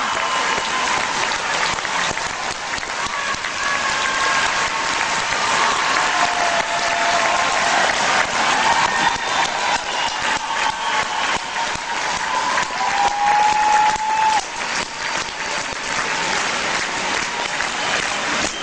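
Large audience applauding steadily, a dense wash of clapping, with a few held pitched calls or whistles rising above it now and then.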